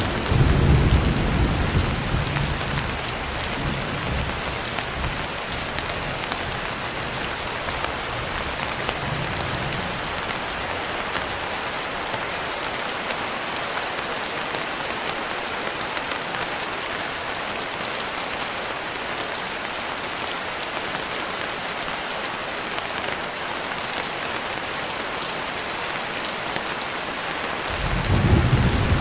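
Steady rain hissing, with rolling thunder: a low rumble dies away over the first few seconds, and another swells in near the end.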